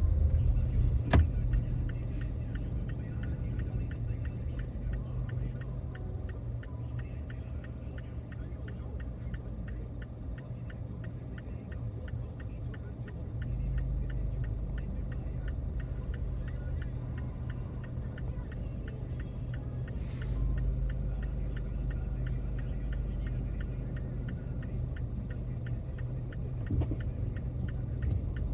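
Car driving on city streets: a steady low rumble of engine and road noise that grows a little louder about halfway through. There is a sharp click about a second in and a short hiss about twenty seconds in.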